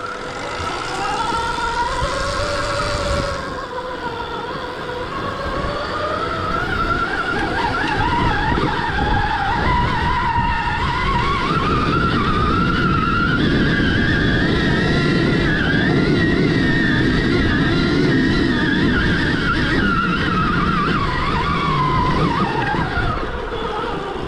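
Stark Varg EX electric dirt bike's motor whining under throttle while climbing a long uphill, its pitch rising and falling slowly, over rough tyre and chassis noise on dirt.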